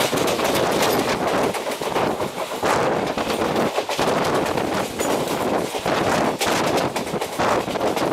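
Passenger train running at speed, its wheels clattering rapidly on the track, with wind rushing past, heard from an open coach window.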